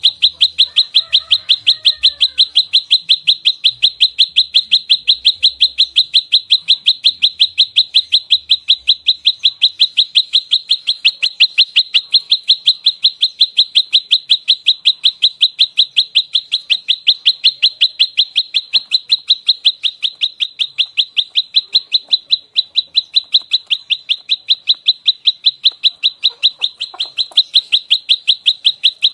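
Prenjak lumut (a small prinia-type songbird) giving its fighting call: a fast, unbroken run of sharp, evenly spaced high chirps, about three a second. This is the rapid-fire 'nembak rapat' call of an agitated, territorial bird.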